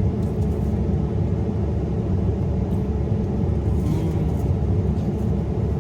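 Steady low mechanical rumble, even and unbroken, with a few faint clicks about four seconds in.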